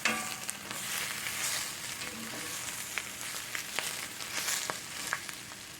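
Cabbage and sausage sizzling in a cast iron skillet, with a utensil scraping and tapping the pan as they are stirred. There is a sharp clack at the start.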